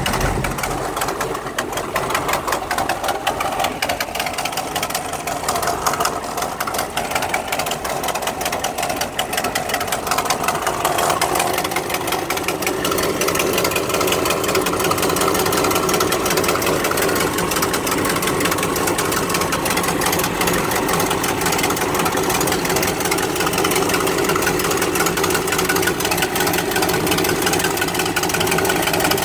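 Engine idling with a fast, even ticking from an exhaust leak. It grows a little louder about eleven seconds in.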